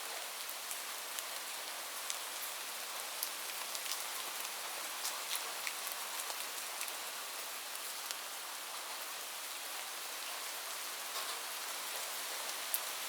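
Steady rain falling, with an even hiss and scattered sharp ticks of individual drops striking a surface close by.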